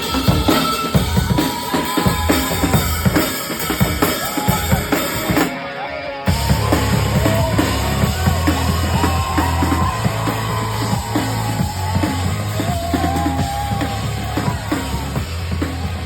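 Drum kit played with kick and snare over music with a bass line and a melody. A short break comes about five and a half seconds in, then the kit and music come back fuller.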